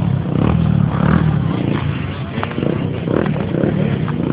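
Dirt bike engines running, a steady low rumble.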